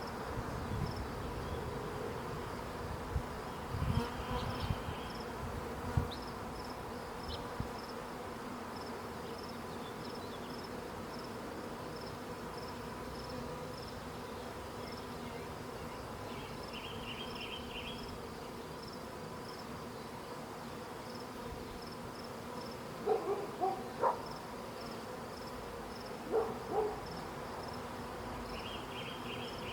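Honeybee swarm buzzing in a steady, continuous hum. A few brief knocks sound near the end.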